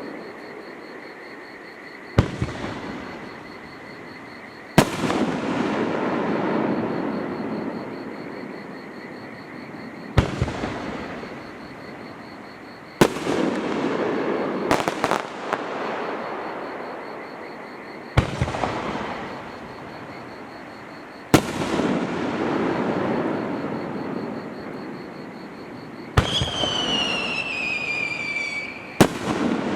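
Aerial fireworks shells bursting, about ten loud bangs a few seconds apart, each followed by a long rolling echo off the surrounding mountains. Near the end a whistling shell gives a falling whistle before the next bang.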